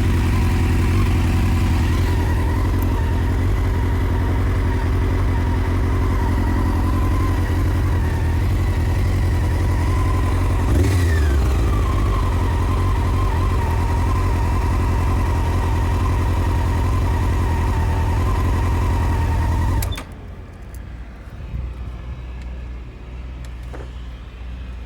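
Honda CBR600 F4 inline-four engine idling steadily, with a short rev that rises and falls back about halfway through. The sound stops suddenly a few seconds before the end, leaving quieter background noise.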